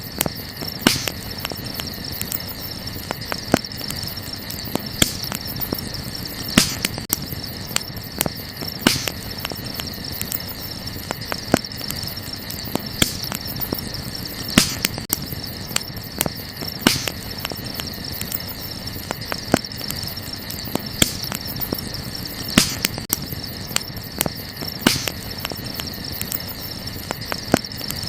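Wood campfire crackling, with frequent small clicks and sharper pops every second or two, over a steady high-pitched chorus of night insects.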